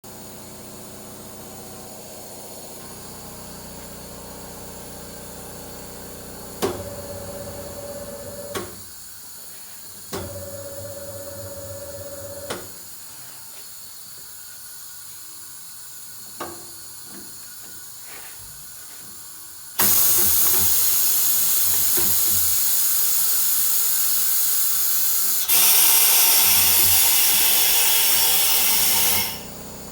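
Sh-514 tyre-changing machine working: its motor runs twice for about two seconds each with a steady whine, each run starting and stopping with a click. Then compressed air hisses loudly in two long bursts of about five and four seconds.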